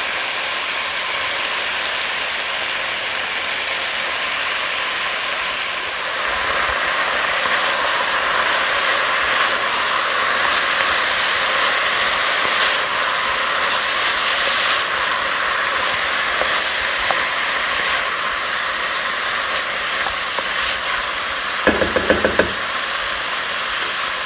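Chopped vegetables sizzling steadily as they sauté in an enamelled cast-iron Dutch oven, a continuous even hiss.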